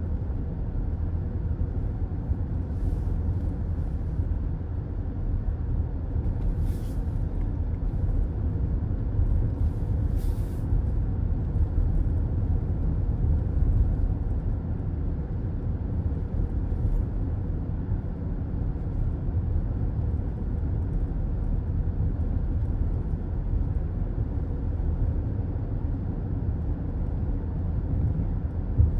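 Car on the highway: steady low rumble of tyre and engine noise from inside the car, with a few brief hisses about 7 and 10 seconds in.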